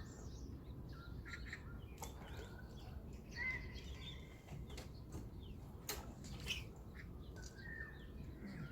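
Small birds chirping and calling in short, repeated notes over a steady low background rumble, with a few sharp ticks.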